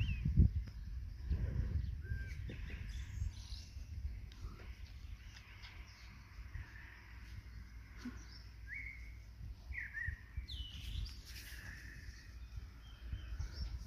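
Birds chirping: short, high calls scattered through, several close together about two-thirds of the way in, over a low rumbling noise that is strongest in the first two seconds.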